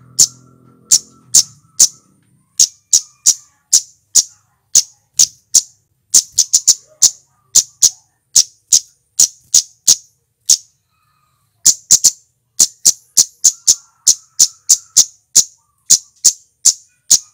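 Male flowerpecker (cit keres, cabe-cabean) giving a long series of sharp, very high 'tsit' chip calls, about two or three a second, with a break of about a second a little past halfway.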